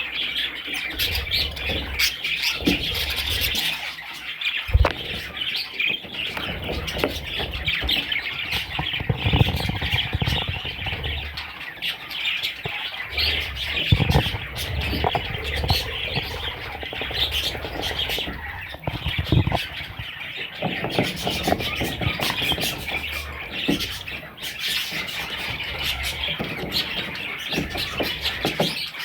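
Budgerigars chirping and squawking in continuous, dense chatter of short calls.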